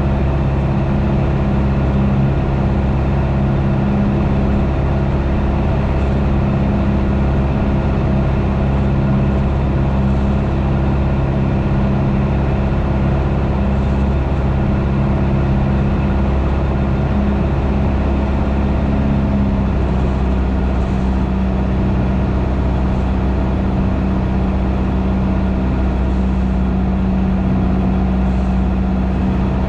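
Piper PA28's piston engine running steadily, heard in the cockpit, with a change in engine note about two-thirds of the way through as power is adjusted on final approach.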